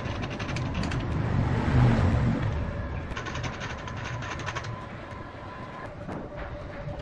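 A mechanical device running with a steady whine, with runs of rapid clicking and a low rumble that swells around the middle.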